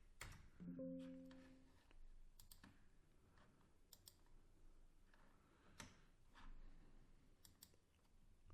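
Faint computer mouse clicks and keyboard taps, scattered singly and in quick pairs, against near silence. A brief low steady tone sounds about a second in.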